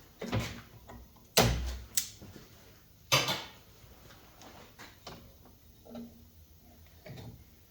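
Sharp knocks and clatters as a new rubber deck belt is threaded around the pulleys of a lawn tractor's steel mower deck: about four loud knocks in the first three and a half seconds, then lighter taps.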